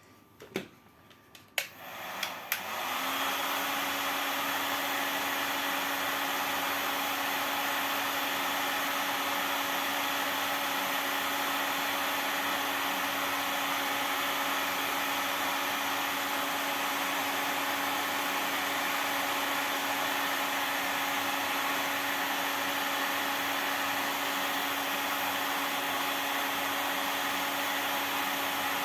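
Electric hot-air blower switched on after a few clicks, about two and a half seconds in, then running steadily with an even hiss of blowing air and a constant hum, heating a plastic lid.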